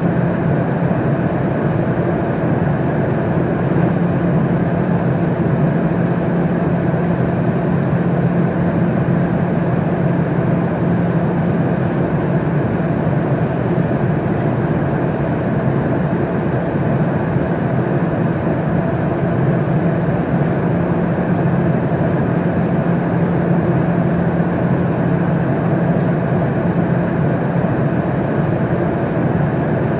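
Steady airliner cabin noise in flight: an even, low rushing drone of engines and airflow with a deep hum, unchanging throughout.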